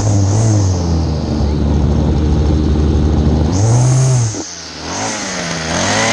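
Small two-stroke Weed Eater string trimmer engine running after a cold start and being revved. Its pitch climbs briefly about half a second in and holds high. It revs harder around four seconds, drops back sharply, then climbs again near the end.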